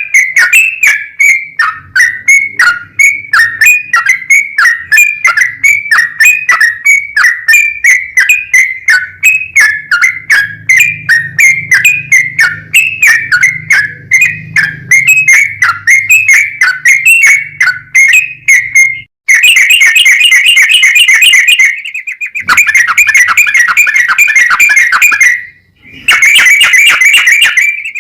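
Yellow-vented bulbul song: a long, loud run of short whistled notes, about three a second, that gives way about two-thirds of the way in to dense, rapid chattering trills. The trills break off abruptly twice.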